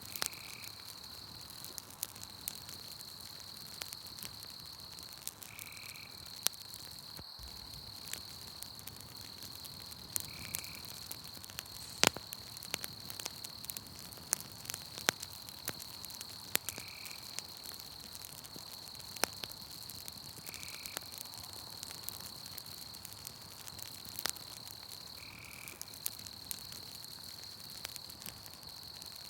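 Campfire crackling, with scattered sharp pops, the loudest about twelve seconds in, over a steady high-pitched insect trill. A short higher call repeats about every five seconds.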